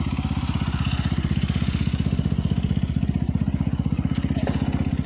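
Dirt bike engine idling steadily close by, an even, rapid low putter.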